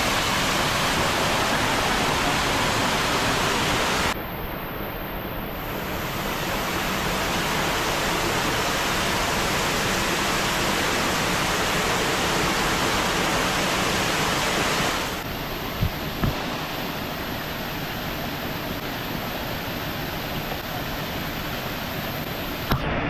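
Waterfall rushing: a steady, loud noise of falling water that shifts in level about four seconds in and again about fifteen seconds in. The water is in spate after heavy rain.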